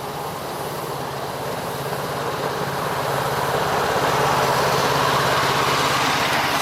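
A miniature railway train running, growing steadily louder as it approaches, with a low steady hum under a rushing, rumbling noise.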